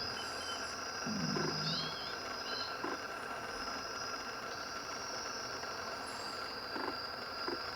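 Faint wild bird calls: a brief low call about a second in, and a few short, thin high chirps.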